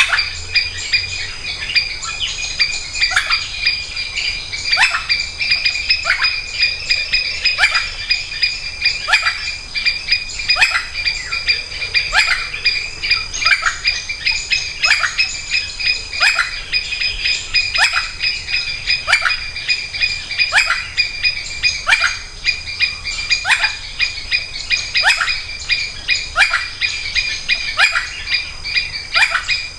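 A Sri Lanka junglefowl hen repeats a short, falling call about once a second, calling to her chicks. Behind it runs a steady, high-pitched din of palm squirrels.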